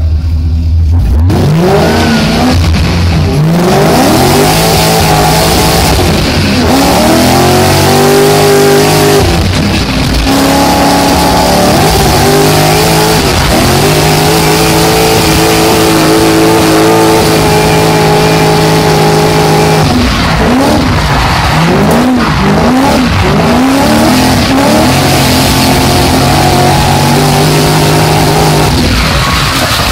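Car engine heard from inside the cabin while drifting: a low idle, then about a second in it revs up in repeated climbs and holds high for several seconds at a time, with tyres squealing and skidding on the tarmac.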